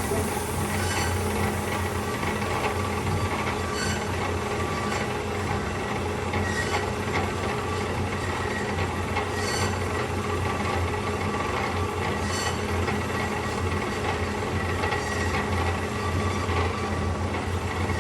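DoALL C-916A automatic horizontal band saw running through its automatic cutting cycle: a steady motor and blade hum with a thin high whine, broken now and then by single clicks and knocks from the machine's mechanism.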